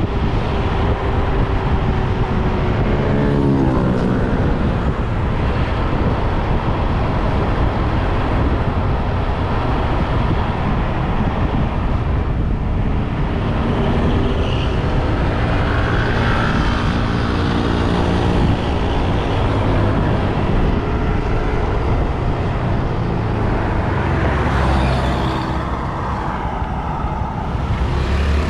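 Riding a motorbike in traffic: a steady rush of wind and road noise, with the engine's pitch sliding up and down a few times as it speeds up and slows.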